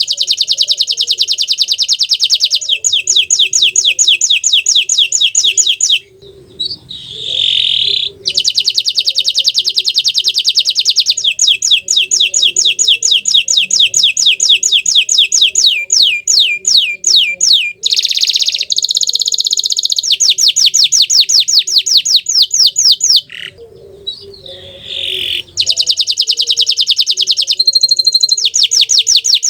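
Green canary singing long, fast trills and rolls of rapidly repeated notes, the runs broken by two short pauses.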